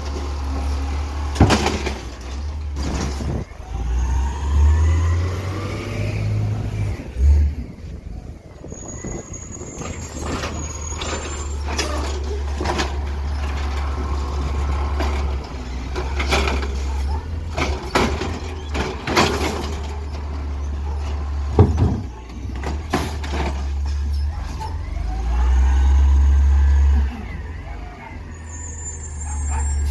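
Garbage truck engine running, swelling louder twice, with repeated sharp metallic clanks and bangs.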